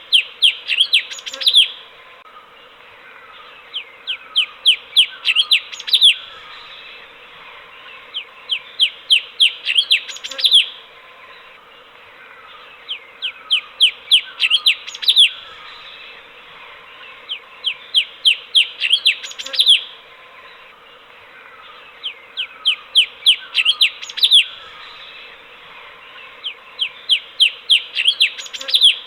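Cucak cungkok (streak-eared bulbul) song: the same quick run of sharp, falling chirps, ending on a louder note, repeats about every four and a half seconds, seven times over, as in a looped training recording. A steady hiss lies under it.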